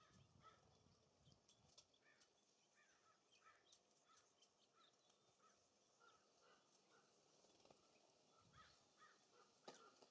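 Faint bird calls at a feeder, short notes repeated many times, with scattered sharp clicks and one louder click near the end. Low wind rumbles come at the start and again a little past eight seconds in.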